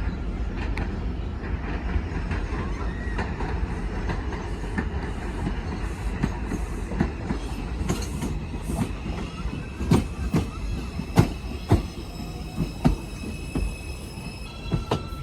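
New York City Subway 4 train pulling into the station: a steady low rumble with wheels clacking over rail joints, the clacks growing louder and further apart as it slows. A high steady whine comes in near the end as it brakes.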